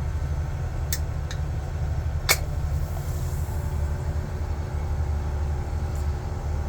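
A steady low rumble throughout, with two small clicks about a second in and a sharp click a little past two seconds in as the pull tab of an aluminium soda can is worked open, followed by a faint hiss.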